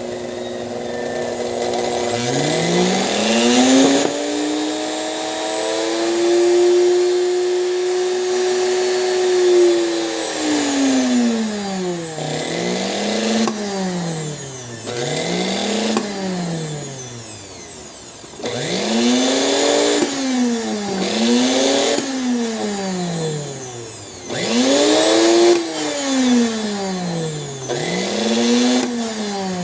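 Sewing machine's 220 V AC electric motor, fitted with a speed control, whining as its speed is varied. It runs up a couple of seconds in and holds steady for several seconds, then is slowed and sped up again over and over, about every one to two seconds.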